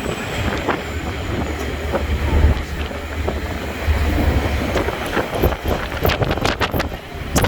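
Northern Explorer passenger train passing, its wheels clattering over the rails, with a heavy low rumble throughout and a quick run of sharp clacks near the end.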